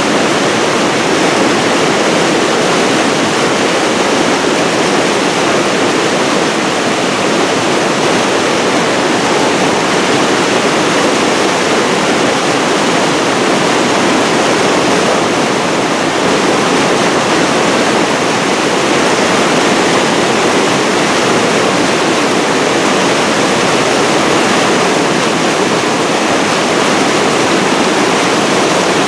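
Flood-swollen river pouring over a mill dam: a loud, steady rush of water.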